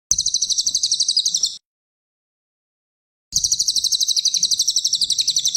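Cililin songbird singing two high, rapid trills of evenly repeated notes, about fourteen a second. The first lasts about a second and a half; the second starts about two seconds after it ends and lasts about two and a half seconds.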